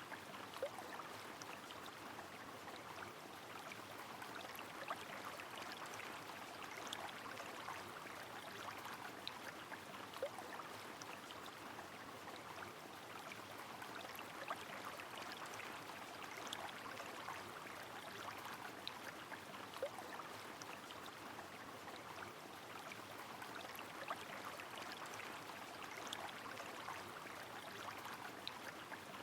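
Rain falling on a flowing river: a steady wash of water with small sharp drips and patters scattered through it.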